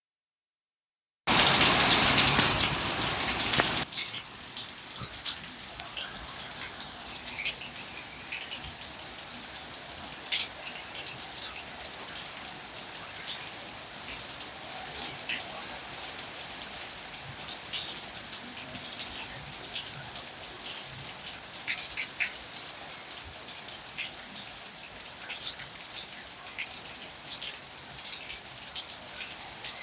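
Steady rainfall with many single drips and splashes ticking through it. It is preceded by a second of dead silence and then a loud rush of noise lasting about two and a half seconds before it settles to the even patter.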